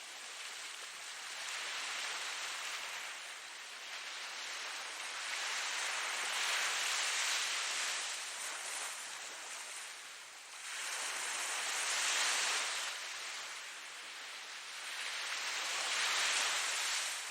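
Ocean surf: waves breaking and washing in, swelling and fading about four times, every four to five seconds.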